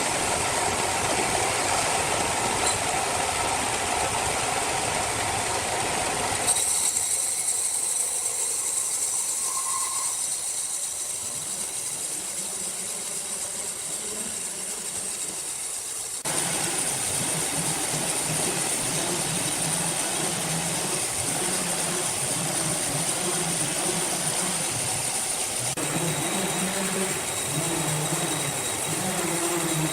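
Sawmill machinery running steadily: a mechanical noise with a high whine. The sound changes abruptly about six seconds in and again about sixteen seconds in, as if from a different machine.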